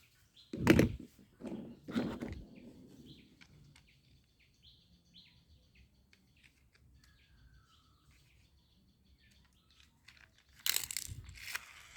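Two knocks about a second and a half apart as plastic toy vehicles are handled, then faint bird chirps in the background, and a rustle of handling near the end.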